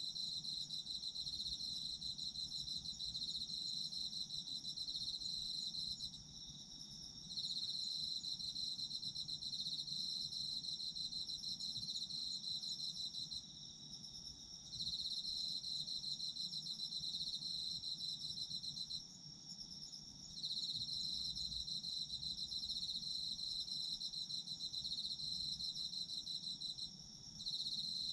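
Autumn crickets chirring in a steady high-pitched trill, broken by short pauses of about a second roughly every six or seven seconds, while a fainter, higher insect note carries on through the pauses.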